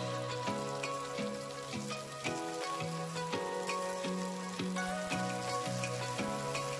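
Salmon fillet sizzling and crackling as it fries in olive oil, with background music playing over it: a simple tune over a bass line that steps from note to note.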